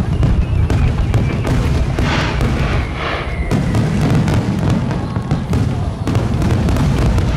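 Aerial fireworks barrage: many shells bursting in quick succession, a continuous rumble of booms with sharp bangs and crackling over it.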